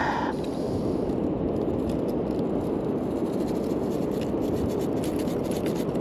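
Steady wind buffeting the microphone, with faint scraping and scratching as a small, dirt-encrusted coin is rubbed and scrubbed to clean it.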